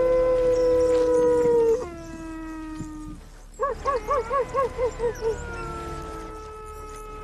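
Wolves howling in chorus: several long held howls overlap. In the middle comes a quick run of about nine short yipping calls that fade, then one long howl carries on.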